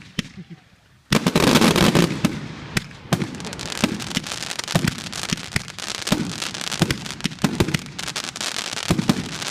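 Consumer firework going off: a loud burst about a second in, then a dense, irregular run of pops and crackling reports.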